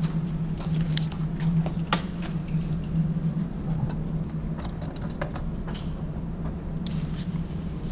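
Steady low droning hum, with scattered light clicks and rattles of things being handled.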